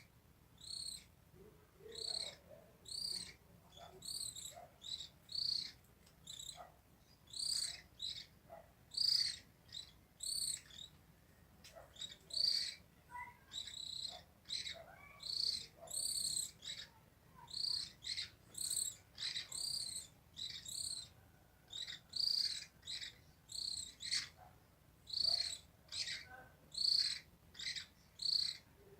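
Birds chirping: short, high calls repeated about once or twice a second, sometimes overlapping.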